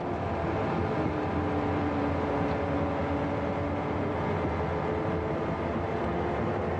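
1936 BMW 326 Cabriolet's straight-six engine running steadily on the road, with a slight shift in pitch about four seconds in, along with road and wind noise, heard from the seat of the open car.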